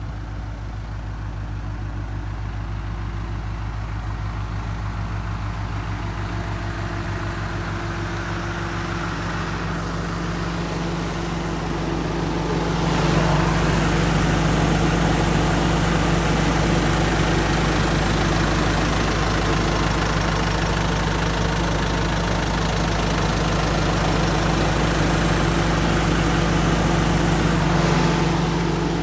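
Mitsubishi Rosa minibus's 4D35 four-cylinder diesel engine idling steadily. It gets louder about halfway through and eases back just before the end, with no clear change in pitch.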